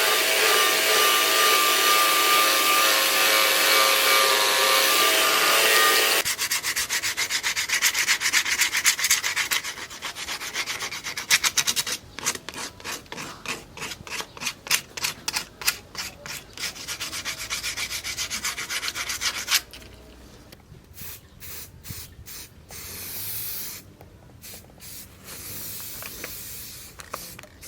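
A power tool runs with a steady whine for about six seconds, then stops. Rapid back-and-forth hand sanding strokes follow on the machete, and they turn sparser and quieter about twenty seconds in.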